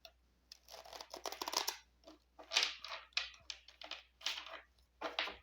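Tarot cards being shuffled by hand: a series of short papery riffles and rustles, several bursts over a few seconds.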